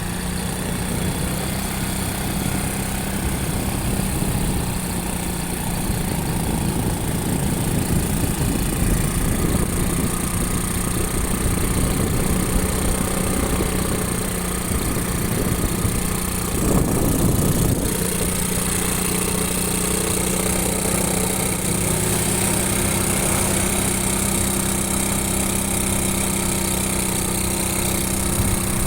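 Motorcycle engine running at a steady pace, with road and wind noise around it. A brief louder rush comes a little past halfway.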